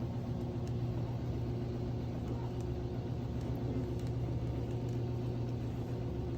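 A steady low mechanical hum, even and unchanging.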